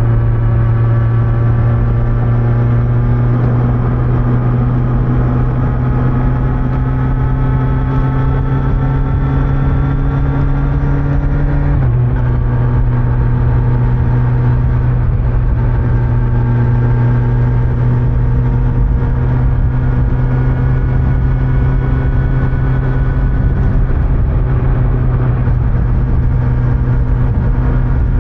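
Kawasaki Z900's inline-four engine on its stock exhaust running under way, its pitch climbing slowly. About twelve seconds in the pitch drops suddenly, as at an upshift, then climbs slowly again, with a low rumble of wind and road underneath.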